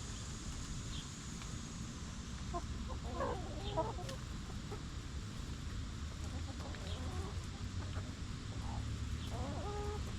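Chicken hens clucking, in a short run of clucks about three seconds in and again near the end, over a steady low rumble.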